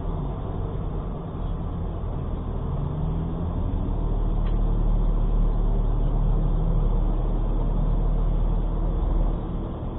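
Vehicle engine and road rumble heard inside the cab through a dashcam microphone, a low steady drone that gets louder as the engine note rises slightly about four seconds in.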